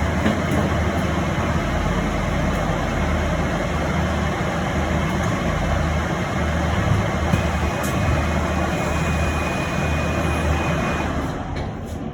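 Cabin noise of an electric bus under way: a steady rumble and hiss of road and running noise. A faint thin whine comes in for a few seconds in the second half, and the noise eases near the end.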